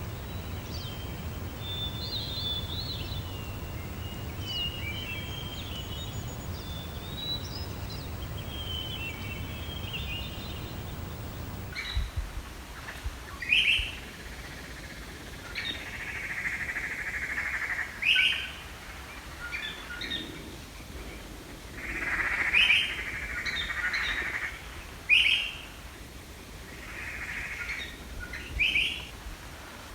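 Small birds chirping and calling, first over a steady low rumble. About twelve seconds in the background changes abruptly; after that, sharp rising chirps alternate with longer harsh, buzzy calls.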